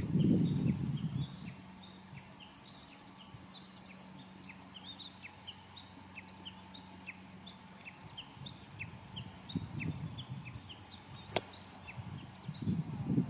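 A bird chirping over and over in short, high, falling notes, about two a second. There is a low rumble near the start and again near the end, and a single sharp click about eleven seconds in.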